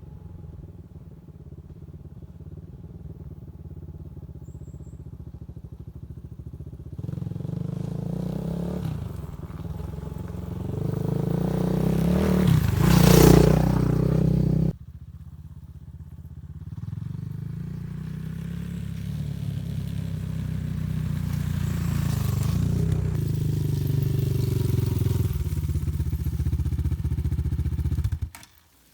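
Small motorcycle engine running under way, growing louder and peaking about halfway through. The sound breaks off abruptly, picks up again, then stops suddenly near the end.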